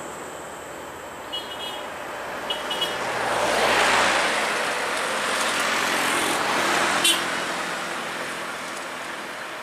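Road traffic passing on a highway hill: a vehicle's engine and tyre noise swell to their loudest about four seconds in, stay up for a few seconds, then fade. A sharp short sound comes about seven seconds in.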